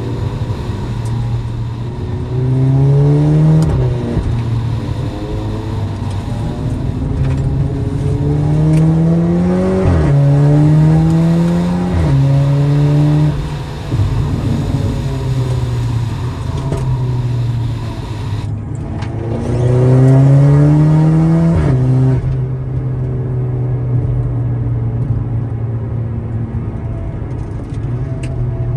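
Tuned, turbocharged Audi TT engine pulling hard through the gears. The revs climb steeply and drop sharply at each upshift, four times, with steadier running between the pulls.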